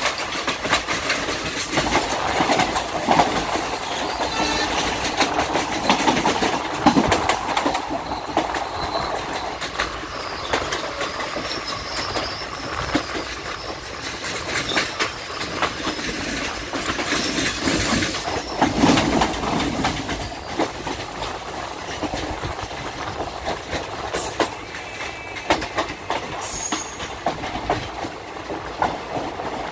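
Indian Railways train running, heard from inside the coach: a steady rumble of wheels on the track, thick with rattles and clicks.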